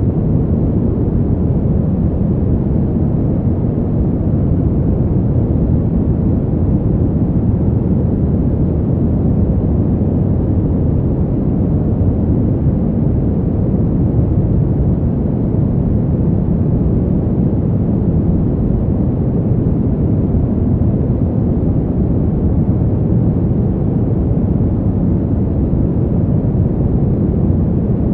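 Steady, deep winter wind noise, a low even rush with no gusts, breaks or other events.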